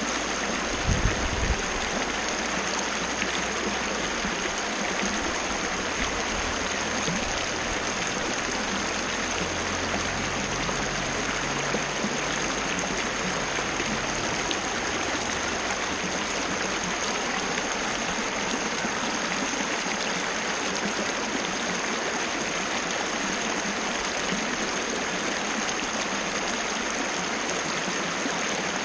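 Waterfall: water falling and splashing in a steady, even rush, with a few brief low bumps about a second in.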